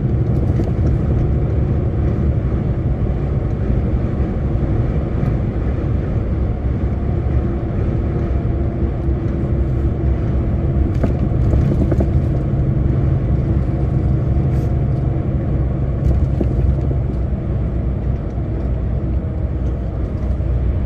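Steady low rumble of a lorry's diesel engine and road noise heard from inside the cab while cruising.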